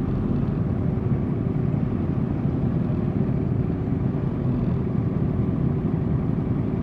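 Motorcycle engines running at steady low revs, a continuous low rumble with no revving.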